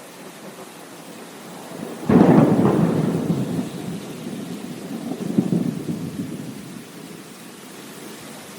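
Steady rain with a sudden clap of thunder about two seconds in, rumbling on, swelling again a few seconds later, then fading back to the rain.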